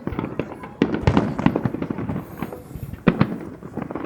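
Aerial fireworks bursting in quick succession: a dense run of bangs and crackles, with heavier booms about a second in and again near the end.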